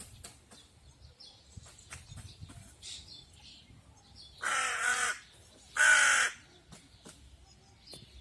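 A crow cawing twice, two loud, harsh calls a little over a second apart in the middle, over faint chirps of small birds.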